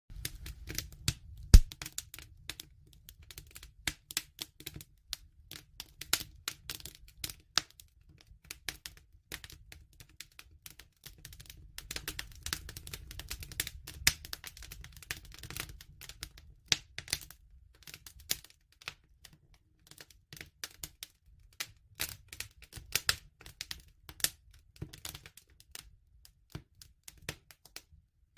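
Bonfire crackling and popping irregularly, several snaps a second over a faint low rumble, with one loud pop about a second and a half in.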